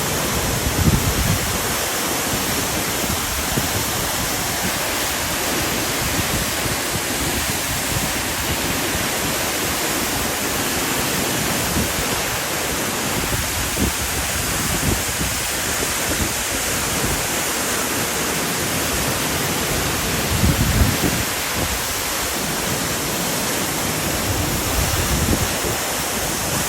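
Waterfall: a steady, loud rush of falling water, with a few brief low rumbles mixed in.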